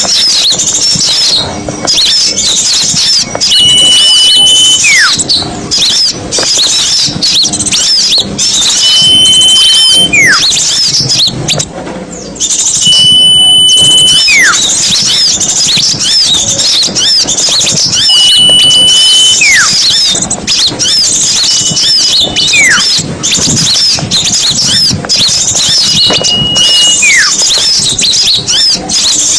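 Bird-luring recording of many small songbirds chattering and chirping densely and loudly. Every few seconds a held high whistle is followed by a short falling whistle.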